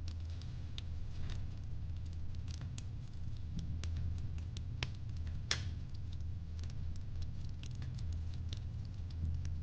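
Wood fire crackling in a fireplace: irregular sharp pops and snaps over a steady low rumble, with one louder pop about five and a half seconds in.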